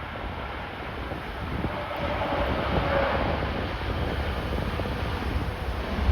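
Jet airliner on approach, its engine noise swelling about two to three seconds in with a faint steady whine, mixed with gusty wind buffeting the microphone.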